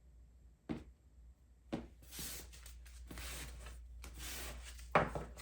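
Tarot cards being handled on a table: two light taps, then about three seconds of cards rubbing and sliding across the surface, and a sharper tap near the end.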